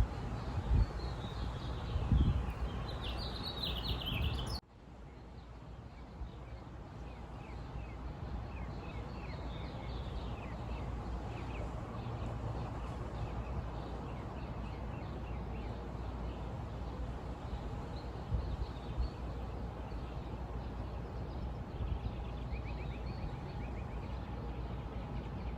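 Outdoor nature ambience: small birds chirping and calling over a steady low background noise. About four and a half seconds in, the sound cuts abruptly to a quieter recording, where the birds go on chirping.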